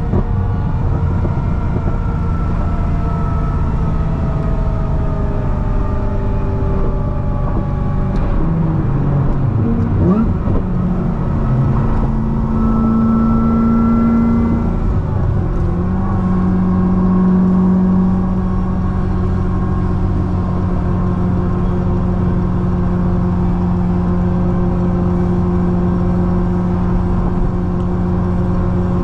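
Supercharged 6.2-litre V8 of a C6 Corvette ZR1 with a Kong 2650 supercharger, on the highway. The engine note sinks slowly over the first several seconds. It revs up quickly about ten seconds in and holds a higher note for a few seconds, then drops and settles into a steady cruising drone over road noise.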